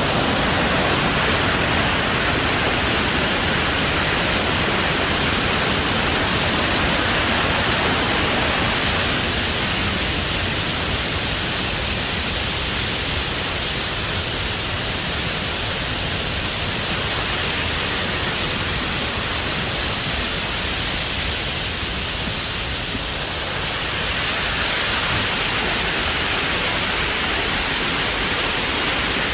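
Waterfall pouring, a steady, even rushing of falling water that eases slightly for a stretch in the middle.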